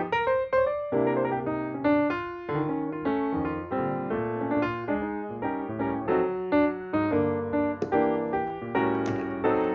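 Background piano music, a steady run of struck notes and chords in a gentle melody.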